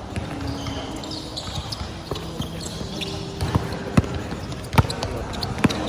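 Basketball bouncing on the court during play: several sharp thuds, mostly in the second half, with brief high squeaks and background chatter from the sidelines.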